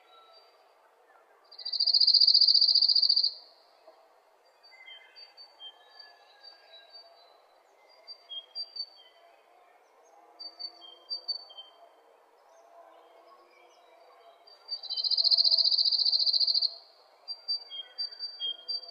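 Birds chirping: rows of short, high repeated chirps, and twice a loud, high buzzing trill lasting under two seconds, one about two seconds in and one near the end.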